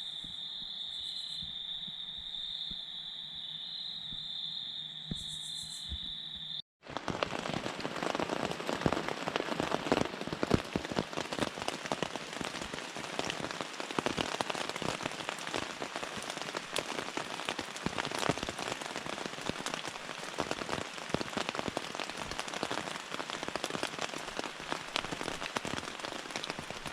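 Crickets chirping in a steady high, pulsing trill, then an abrupt cut about seven seconds in to heavy rain: a dense, louder spatter of countless individual drop hits that continues to the end.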